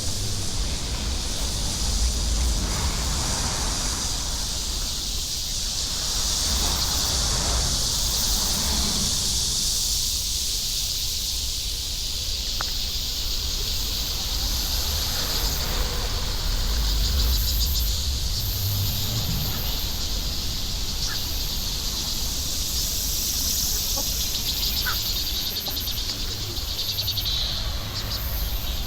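A steady, high-pitched chorus of insects, with a low rumble underneath throughout.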